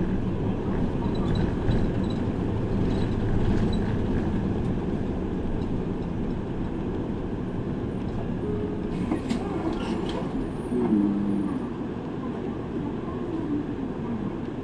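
Route bus riding along, heard from inside the cabin: steady engine and road noise with light rattles and clicks, a brief hiss about nine seconds in, and the engine pitch rising and falling near the end.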